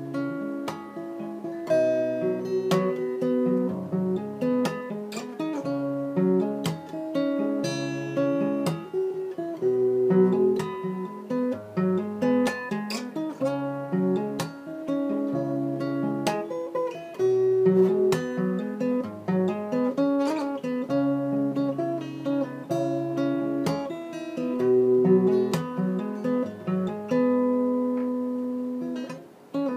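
A plucked string instrument playing a melody of single ringing notes and chords, each note struck sharply and left to sustain.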